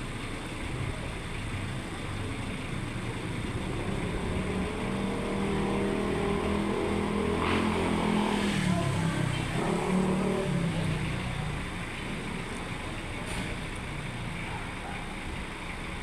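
A motor vehicle passing by: its engine note swells over several seconds, is loudest about halfway and drops in pitch as it goes past, then fades, over a steady hiss.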